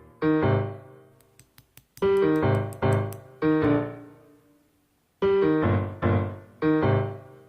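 Piano playing a slow song intro: chords struck in groups of three, each group ringing and fading away before the next, with a short pause between groups.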